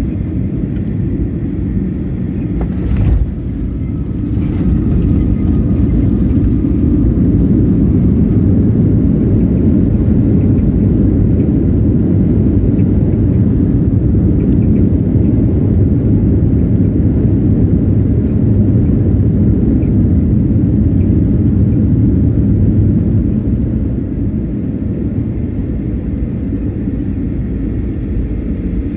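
Airliner cabin noise during the landing rollout just after touchdown: a loud, low rumble of the jet engines and wheels on the runway. It swells about four seconds in and eases off near the end as the aircraft slows, with a short clunk about three seconds in.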